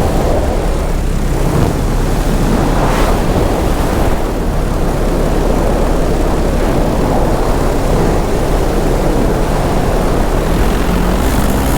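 Paramotor engine and propeller running steadily in flight, largely buried under loud, even wind rush over the microphone.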